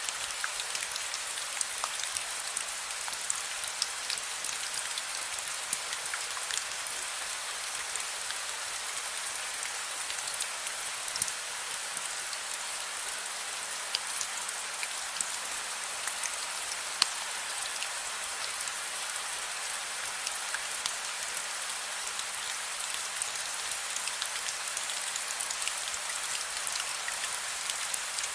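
Steady rain falling, a constant hiss with many small drop ticks scattered through it and one sharper drop about 17 seconds in.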